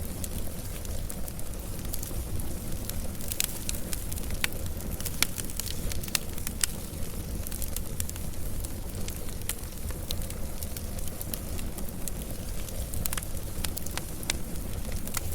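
Wood fire burning: a steady low rumble of flames with frequent irregular crackles and pops.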